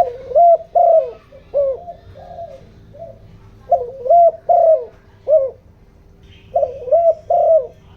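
Spotted dove cooing: three phrases of short repeated coos with brief pauses between them. It is the fast, urgent cooing that dove trappers use as a lure call to excite wild and decoy doves.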